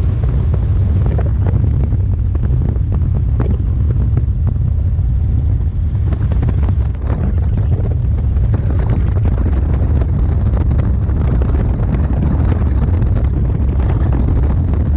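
Robinson R44 helicopter in flight, heard from the open-door cabin: a steady, heavy low drone from the rotor and engine, with wind buffeting the microphone in uneven gusts.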